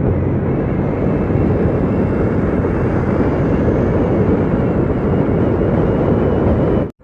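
Steady rushing wind and road noise of a moving vehicle on the microphone, with a faint engine hum in the first second; it cuts off abruptly near the end.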